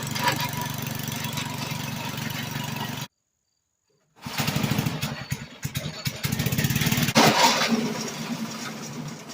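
Mackissic Mighty Mac wood chipper's small gas engine running, with irregular knocking and rattling as branches are fed through. The sound cuts off abruptly about three seconds in, comes back a second later, and fades near the end.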